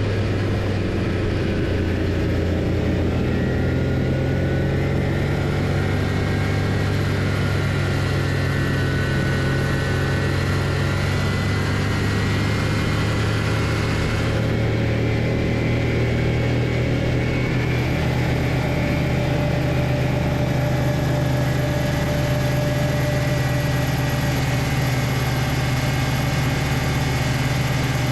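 Homemade snowmobile's Loncin engine running steadily, its pitch drifting slightly up and down with no pause.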